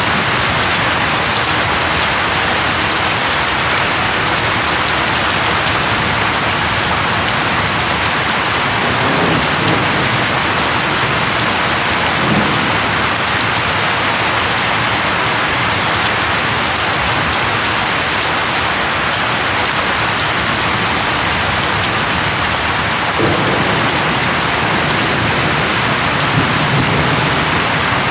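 Steady rain falling, a dense, even hiss, with a few faint low rumbles partway through.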